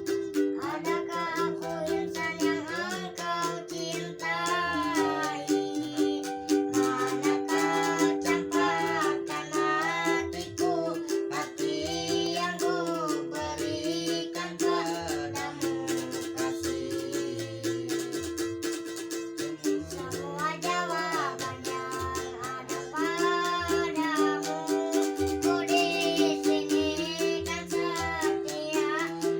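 A four-string ukulele strummed in a steady rhythm while a young singer sings the melody over it.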